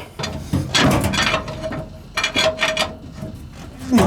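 Clanks and creaks of steel bars turning a seized 1125 cubic inch Buda straight-eight diesel over by hand, in several bouts of effort. The engine turns stiffly, which the owner thinks could be rust in the cylinders.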